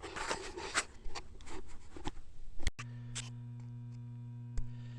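Light clicks and knocks of metal parts and tools being handled. Then, after an abrupt cut a little over halfway, the steady electrical hum of a welder switched on and standing ready, with a couple of single clicks.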